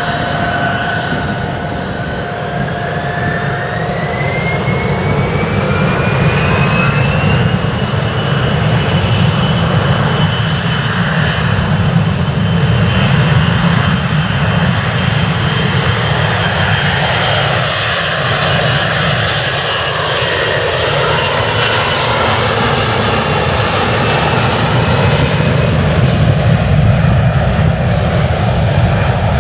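Jet airliner's engines running at takeoff power as it departs: a loud, continuous rumble with a whine that rises in pitch over the first several seconds, then holds steady.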